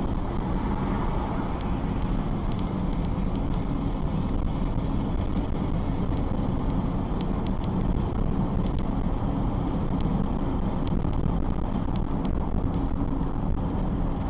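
A car driving, recorded from inside: steady engine and road rumble at an even level, with a few faint ticks.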